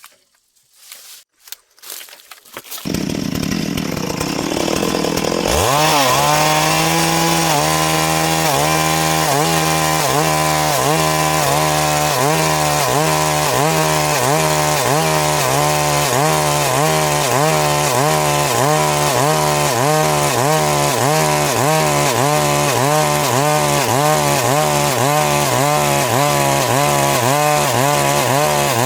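Stihl MS 382 two-stroke chainsaw. After a few faint knocks it comes in at lower revs about three seconds in, then revs up sharply a couple of seconds later. It holds high, steady revs with an even wavering, cutting along the log to saw boards.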